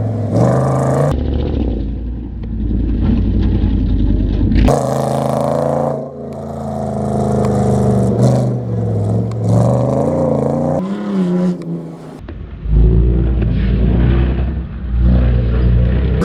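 Trophy truck engine revving and running hard, heard in a series of short clips that cut abruptly from one to the next.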